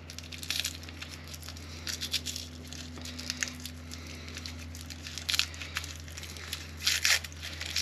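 Small plastic parts bag crinkling and rustling as it is handled and opened, with scattered light crackles and a busier rustle near the end. A steady low hum runs underneath.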